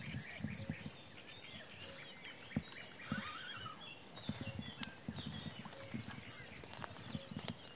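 Birds chirping and calling, many short chirps, over an uneven low rumble.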